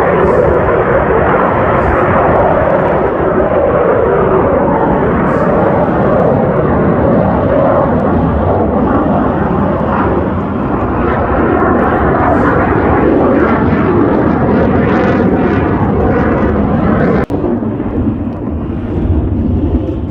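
Blue Angels F/A-18 Super Hornet jets flying past: loud, continuous jet engine noise whose pitch slowly slides as the aircraft pass, with a brief dropout near the end.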